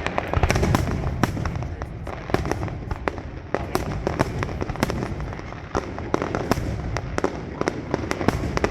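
Fireworks display going off: a dense, irregular run of sharp cracks and bangs, several a second, over a continuous low rumble of booms.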